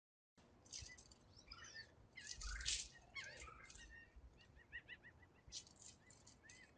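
Faint birds chirping and calling, with short gliding notes and a quick run of repeated chirps a little after halfway.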